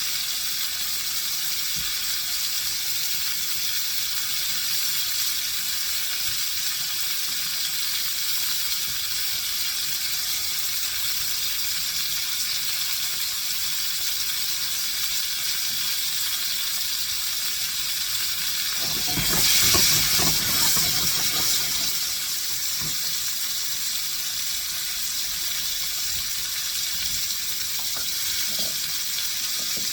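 Chicken breasts sizzling in oil in a hot skillet, a steady hiss. About two-thirds of the way through, a louder rush of noise swells for two or three seconds and dies back.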